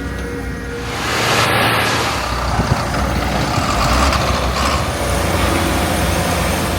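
Heavy diesel machinery running under load, with a steady low engine note and a broad noise that swells in about a second in.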